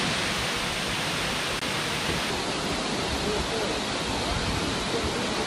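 Steady rushing of a waterfall, with faint voices in the background.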